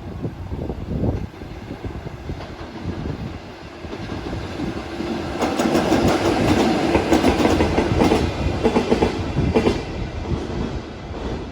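A train passing at speed: a rumble builds, then wheels clatter over the rail joints in quick repeated strikes, loudest from about halfway, and eases off near the end.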